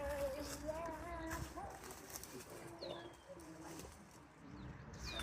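Indistinct voices, with a small bird giving short high whistled notes that slide downward, twice.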